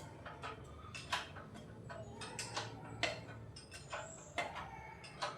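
Irregular light clicks and knocks, about a dozen, as a motorcycle front fork leg is worked out of its yokes, over a low steady hum.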